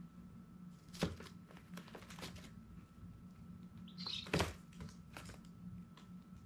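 Baby chicks: one short high peep just after four seconds in, among scattered sharp taps and knocks, the loudest about a second in and near the middle, over a steady low hum.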